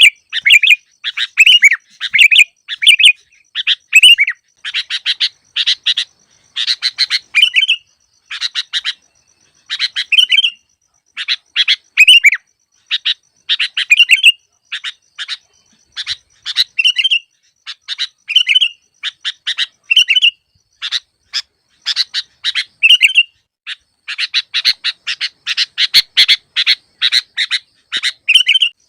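Sooty-headed bulbul (kutilang) song: a nonstop series of short, bright chattering phrases, each a quick burst of notes ending in a chirp, repeated about every second and coming thicker near the end. It is a masteran recording of the type used to lure bulbuls that are slow to call.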